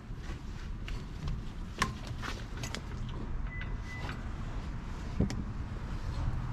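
A car running with a steady low rumble, and two sharp clicks about two and five seconds in.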